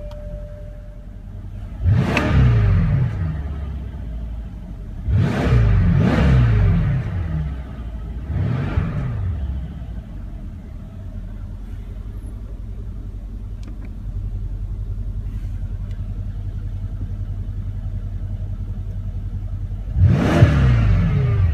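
Mercedes-AMG S63's 5.5-litre bi-turbo V8, heard from the driver's seat, idling in Park and blipped on the throttle four times: a quick rev about two seconds in, a longer one around five to seven seconds, a smaller one near nine seconds, and another near the end.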